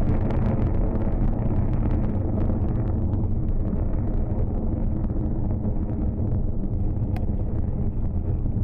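Soyuz-2.1a rocket in powered ascent: a loud, continuous deep rumble of its engines, whose higher frequencies gradually fade as it climbs away.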